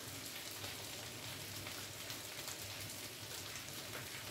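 Chicken pieces and potato wedges frying in oil in a pan: a steady sizzle peppered with small crackles.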